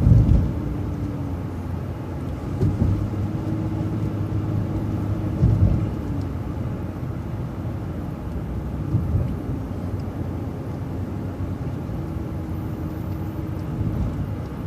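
An MCO ViewMaster transit bus driving, heard from on board: a steady engine hum and road rumble, with a few loud thumps over bumps.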